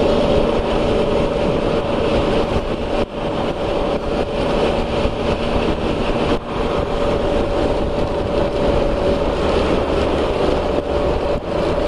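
Can-Am Spyder RT three-wheeler cruising at a steady speed: a constant engine drone under a rush of wind and heavy rain noise, dipping briefly twice.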